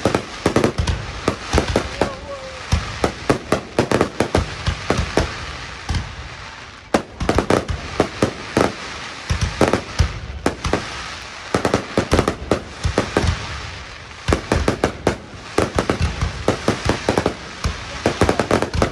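Aerial fireworks going off in a dense, irregular volley of sharp bangs and crackles, clustered in fast runs with brief lulls around 6–7 and 14 seconds in.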